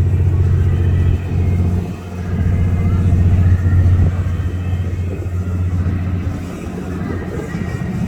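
Steady low rumble with faint background voices, typical of a busy exhibition hall.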